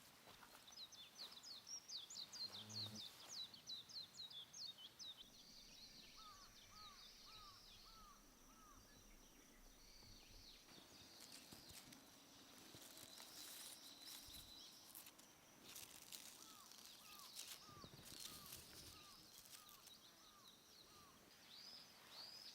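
Faint birdsong in the forest. A quick run of high descending notes comes in the first few seconds, and later a series of about eight short lower notes is heard twice, at an even pace.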